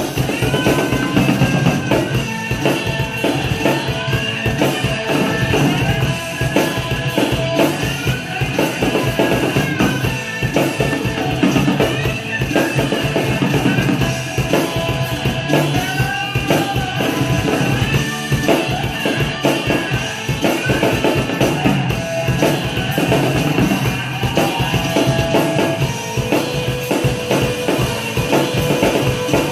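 Drum kit played along to a recorded rock song, a steady driving beat over the track's pitched melody lines.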